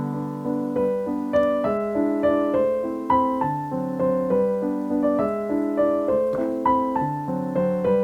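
Background music: solo piano playing a gentle melody over chords.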